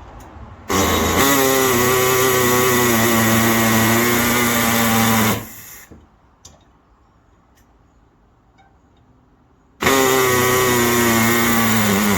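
Pneumatic air hacksaw running while cutting through the exhaust pipe at the catalytic converter. It runs in two steady bursts: one of about four and a half seconds starting just after the beginning, then a quiet gap, then a second burst near the end.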